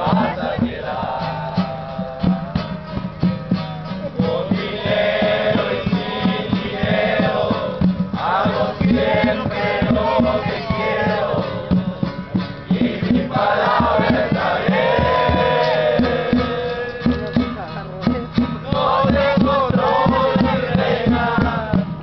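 A group of people singing together in phrases a few seconds long, over a quick rhythmic beat.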